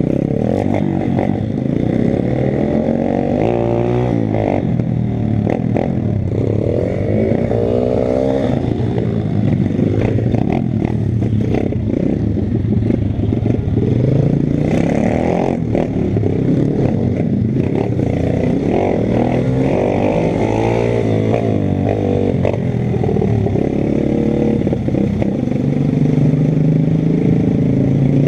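Pit bike engine being ridden, revving up and falling back again and again as the rider works the throttle and gears, with frequent short knocks and rattles over the engine.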